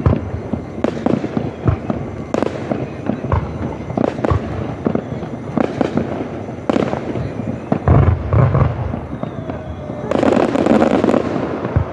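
Fireworks display: a rapid, continuous run of bangs and crackling from bursting aerial shells, with a deeper, heavier boom about eight seconds in.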